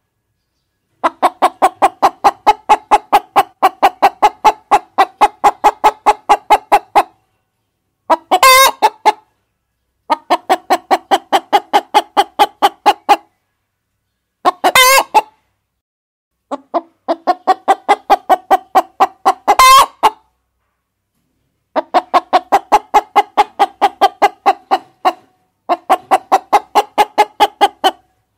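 Hens clucking in long runs of rapid, evenly spaced clucks, about three to four a second, broken by dead-silent pauses. Three times a shorter, sharper, higher call cuts in.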